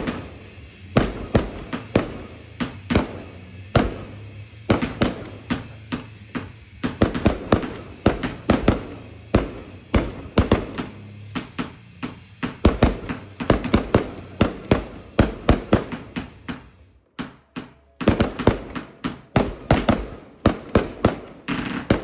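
Consumer firework cakes going off in a rapid string of sharp bangs, several a second, with a brief lull about seventeen seconds in before the bangs resume.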